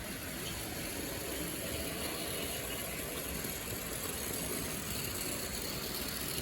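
Triang-Hornby-built clockwork toy locomotive running on HO/OO track: a steady whir of its wound spring motor and gears, with the wheels running on the rails.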